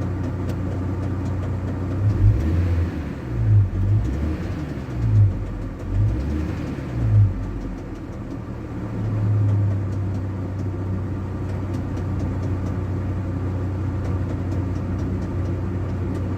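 ZMZ-405 petrol four-cylinder engine running with a steady knock that the owner suspects is not the timing chain: it started after a new hydraulic chain tensioner was fitted, so the tensioner does not cure it. About two seconds in the engine swells briefly five or six times, with a longer rise around nine seconds.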